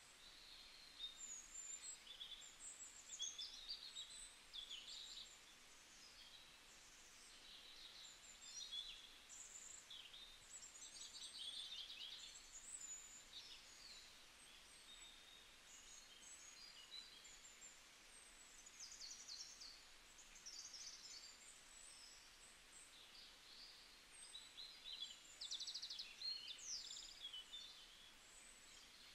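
Faint birdsong: many short chirps and quick trills from small birds, scattered without a fixed rhythm over a steady low hiss.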